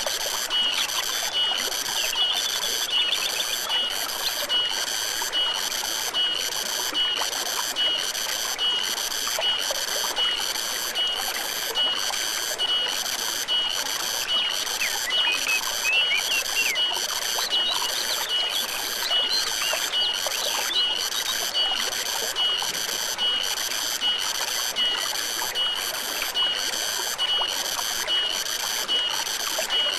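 Forest stream trickling steadily under a high-pitched animal chorus that pulses regularly, a little over once a second. A few short bird-like chirps come through around the middle.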